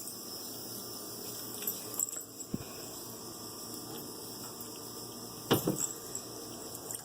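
A steady hiss with a few light knocks and clatters; the loudest comes about five and a half seconds in.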